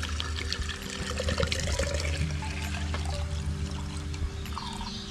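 Gasoline being poured out of a string trimmer's fuel tank into a container: a steady trickling, splashing pour.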